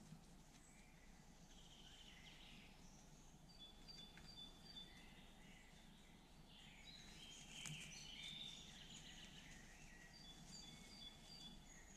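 Faint woodland birdsong: several birds chirping at different pitches, with one bird twice repeating a short high note several times in a row, over a steady low background hiss.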